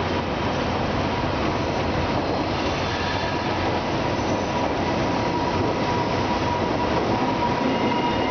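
SPENO rail-grinding train running away along the track, its wheels giving a steady rolling noise, with a thin steady whine growing stronger in the second half.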